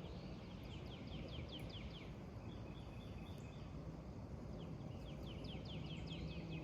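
Outdoor bird song: a songbird gives two quick runs of short, falling chirps, one in the first two seconds and another about four and a half seconds in, over a steady low background rumble.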